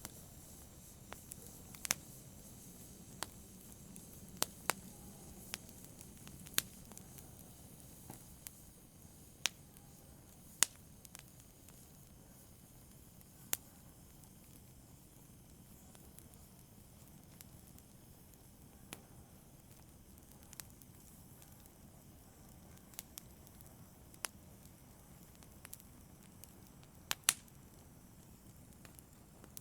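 Wood fire crackling: irregular sharp pops and snaps a second or few apart over a faint steady hiss, with the loudest pops near the end.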